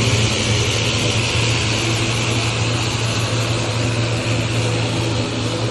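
An aircraft engine running steadily: a loud, unbroken drone with a strong low hum underneath.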